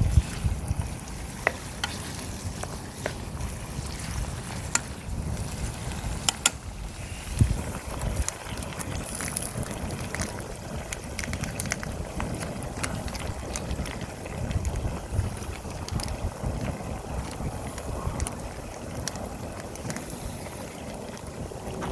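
Wind gusting on the microphone as an uneven low rumble, with scattered light clicks and knocks over it.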